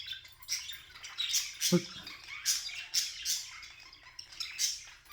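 Budgerigar chattering in short, scratchy, high-pitched chirps, about two a second.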